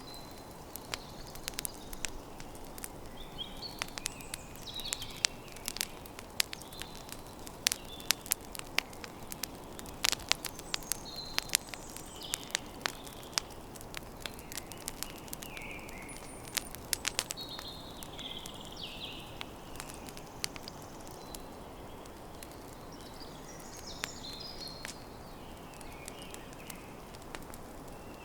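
Campfire crackling and popping, with many sharp snaps, densest in the first half, over a steady low hiss. Birds chirp here and there.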